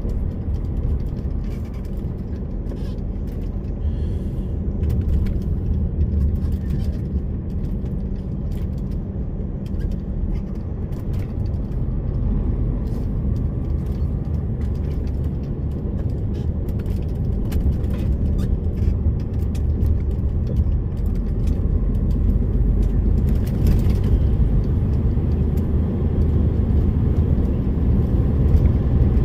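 DAF lorry's diesel engine running steadily as it drives, a low rumble with scattered light clicks and ticks, slightly louder over the last few seconds.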